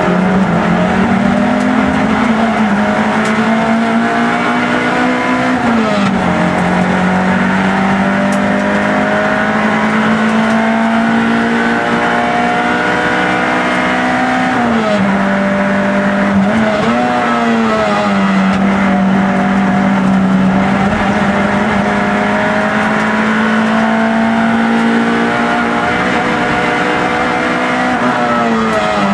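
Peugeot 106 race car's four-cylinder engine running hard at high revs, heard from inside the cabin. Its pitch climbs slowly and drops sharply about four times at gear changes.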